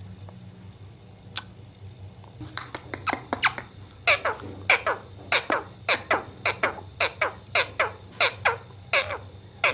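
Parrot giving a rapid run of short, shrill calls, each falling in pitch, about three a second, starting about two and a half seconds in. A low steady hum sits underneath.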